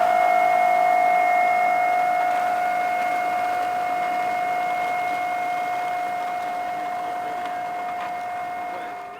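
Electric motor and propeller of an RC P-47D warbird running at steady throttle: an even whine that holds one pitch and slowly fades, dropping off a little more near the end.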